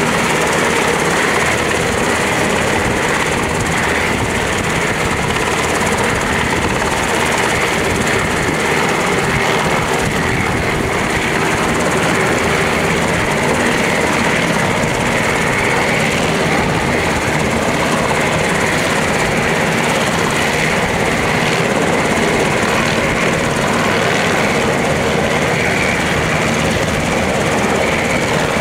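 Helicopter running at close range, its turbine whine and rapid rotor beat steady and loud throughout, as it readies for or makes its takeoff.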